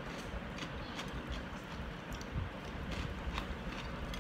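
A person chewing a mouthful of raw cucumber with closed lips: soft, irregular wet mouth clicks and crunches over a steady low background rumble.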